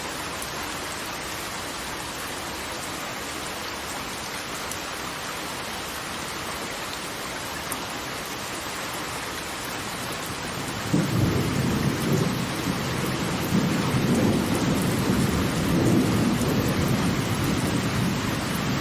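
Steady rushing hiss of falling water. About eleven seconds in, a deep low rumble sets in abruptly and carries on, louder than the hiss.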